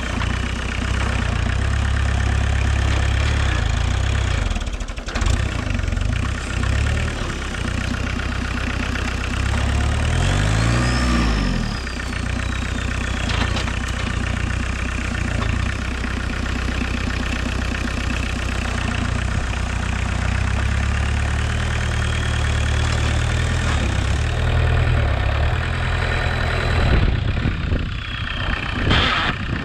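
Homemade 4x4 tractor's VW 1.6 turbodiesel engine running steadily, its speed dipping and recovering about ten seconds in, with a faint high whine that rises and falls.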